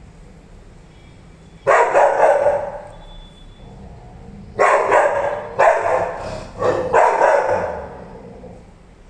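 Rottweiler barking: a couple of deep barks close together near two seconds in, then a run of about four more from about halfway through.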